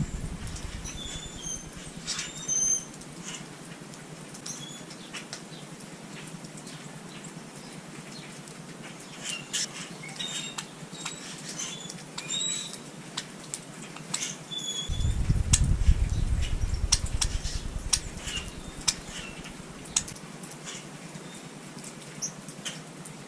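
Small birds at a feeder giving short chirps and call notes, with many quick sharp ticks and patters among them. A low rumble comes in past the middle for several seconds.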